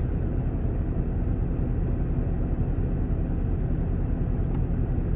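Semi truck's diesel engine idling: a steady low rumble with a faint, even hum above it.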